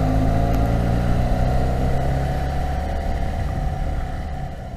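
2012 Yamaha FZ6R's 600cc inline-four engine running at steady revs while riding, fading out near the end.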